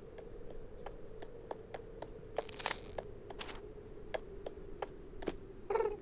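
Animated-cartoon sound effects: light ticking taps about three a second over a faint steady hum, two brief scraping rustles in the middle, and a short cat's mew near the end.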